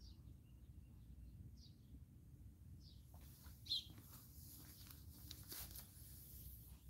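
Faint outdoor ambience with a low steady rumble and a few scattered, high bird chirps; one chirp a little past halfway is louder than the rest.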